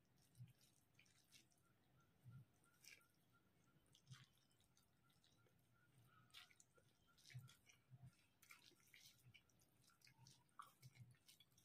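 Faint eating sounds from a person eating curry and rice by hand: soft wet chewing with scattered small mouth clicks and occasional soft thumps.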